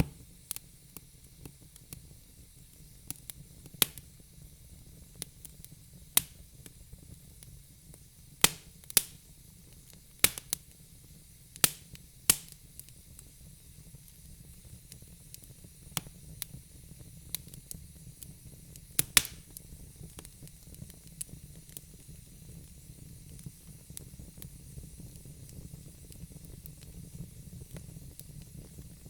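Wood fire burning in a fireplace: logs crackling with sharp, irregular pops and snaps over a low rumble of flame and a faint hiss. The pops thin out in the second half.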